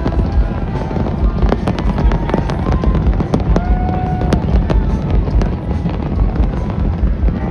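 Fireworks going off in quick succession: a continuous low rumble of booms, cut through by many sharp cracks.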